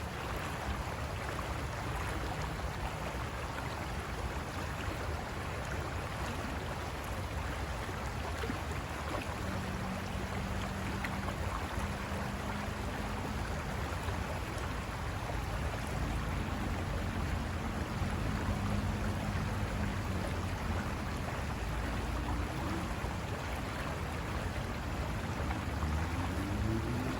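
River water rushing over rocks, a steady wash of noise. A low hum joins about ten seconds in and rises in pitch near the end.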